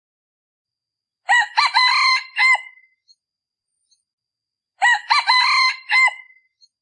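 A male decoy junglefowl cock crowing twice, each crow a short four-part call of about a second and a half, the two crows identical. It is the call used to lure wild junglefowl cocks.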